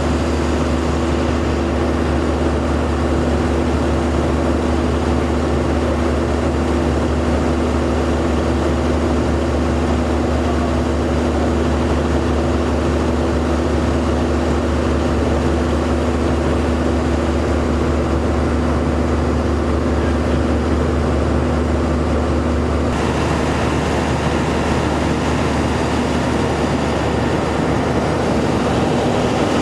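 A vehicle engine running steadily with an even hum; its sound shifts slightly about 23 seconds in.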